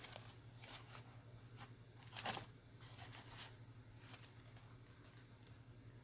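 Faint, scattered rustles and small clicks of paper and waxed linen thread being handled while a journal signature is hand-sewn, with one louder rustle a little over two seconds in, over a low steady hum.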